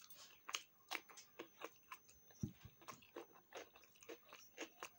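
A person chewing a mouthful of food: faint, irregular soft clicks of the mouth, a few a second.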